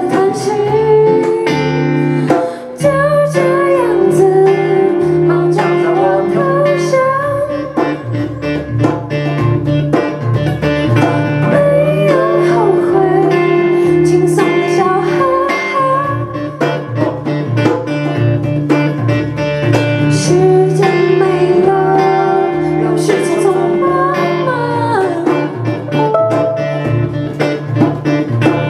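A small band performing live: plucked guitar with singing over it.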